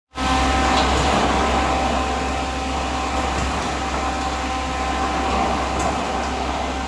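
Diesel concrete mixer pump running steadily: a continuous machine drone with a strong low hum and a few held tones above it.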